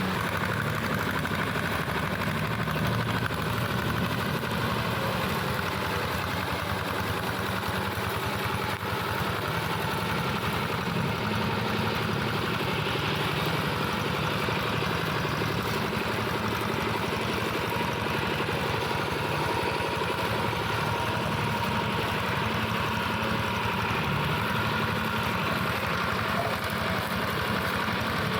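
Engine of a plough tractor modified as a brush mower, running steadily without revving up or down.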